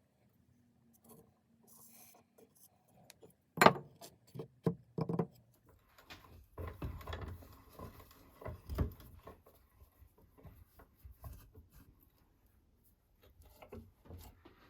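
Workbench handling noises on wood: a sharp knock a few seconds in, a few more knocks, then a few seconds of rubbing and scraping with small knocks, and sparse clicks near the end.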